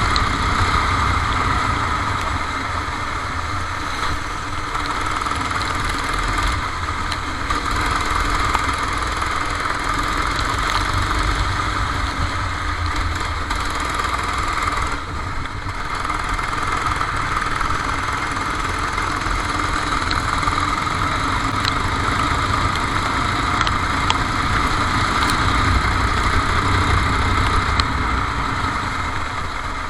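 Kart engine running, heard onboard. The pitch wavers slightly, with a brief drop in level about halfway.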